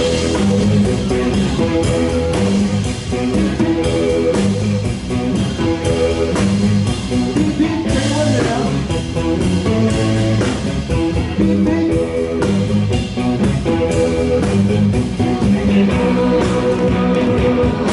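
Live blues band playing an instrumental passage led by guitar, with a steady beat and bass line. It stops suddenly near the end.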